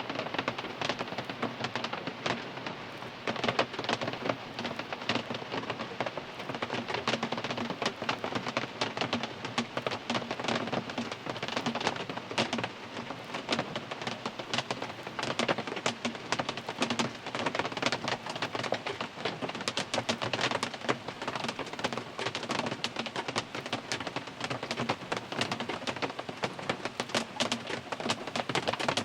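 Rain falling on a car's roof and glass, heard from inside the car: a dense, steady patter of many small drop impacts.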